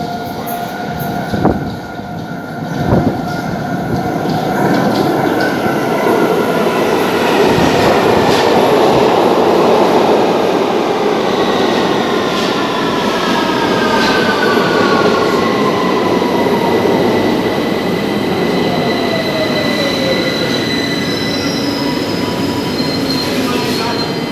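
London Underground Victoria line train (2009 Stock) running in on the underground line. Its dense running noise builds after two sharp knocks near the start. Its whine falls in pitch as it slows, with high steady squealing tones near the end.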